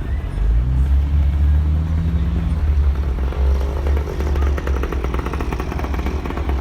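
Motor vehicle engine running, its pitch rising about half a second in, then a rapid even pulsing toward the end, over a heavy low rumble.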